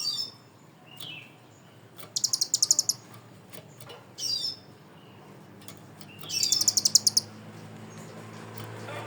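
Kinoi songbird singing its fill-in song of cililin and kapas tembak imitations. Short high down-slurred whistles alternate with two rapid-fire trills of sharp repeated notes, the 'tembakan' phrases, about two and six seconds in.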